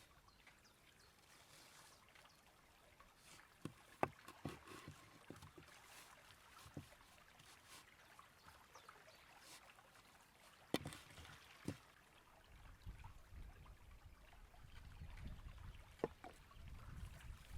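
Faint flowing river water with a few sharp clicks and knocks of food and utensils being handled, the loudest about four, eleven and sixteen seconds in. A low rumble comes in for the last few seconds.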